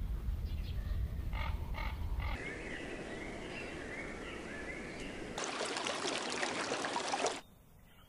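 Spliced nature soundtrack: bird calls and chirping over a low rumble, then about two seconds of loud, steady rushing hiss that cuts off abruptly near the end, leaving quiet.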